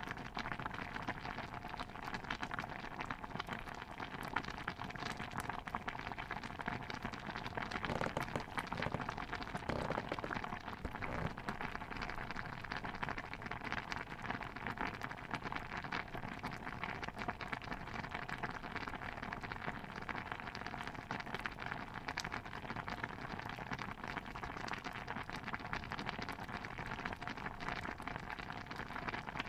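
Stew bubbling at a boil in a pot: a dense, steady run of small pops and crackles, a little louder for a couple of seconds about eight seconds in.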